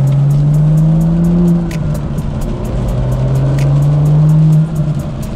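BMW M2's turbocharged straight-six with an aftermarket Dinan exhaust, heard from inside the cabin accelerating hard. Its note climbs through a gear, drops at a shift about a second and a half in, climbs again and falls away near the end.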